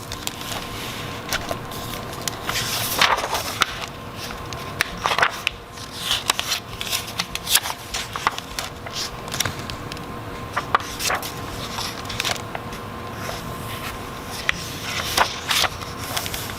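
Irregular rustling and scraping with many scattered sharp clicks, over a faint steady hum.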